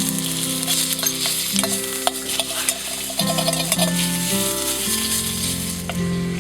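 Food sizzling and frying in a hot sukiyaki pan, with clicks and scrapes of a utensil stirring it, over soft background music.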